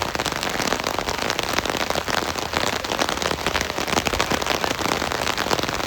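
Heavy rain falling steadily, a dense crackling patter of many individual drop hits.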